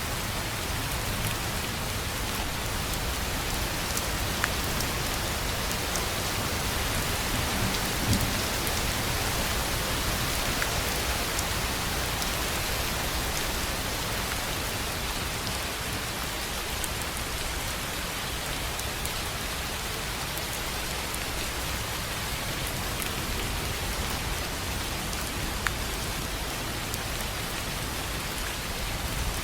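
Steady rain falling on a tin roof: an even hiss of rain with scattered sharper drop ticks, and a brief louder low thump about eight seconds in.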